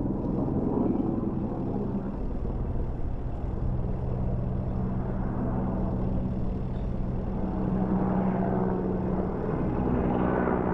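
Steady engine drone of a firefighting aircraft, growing brighter and a little louder toward the end.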